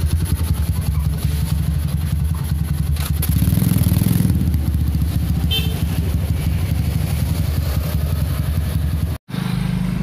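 Motorcycle engine, bored out to 250cc, running through an aftermarket PDK racing exhaust. It runs steadily with a louder rev about three seconds in, and the sound cuts out for an instant near the end.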